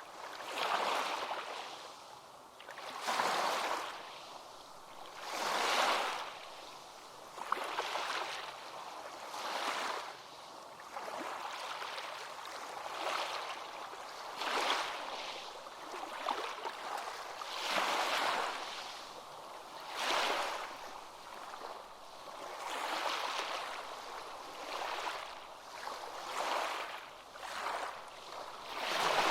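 Ocean waves breaking and washing in. The rush of surf swells and fades about every two to three seconds.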